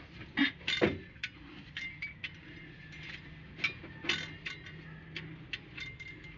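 Hand tools and metal engine parts clicking and clinking, a run of irregular taps with two louder knocks about half a second and a second in.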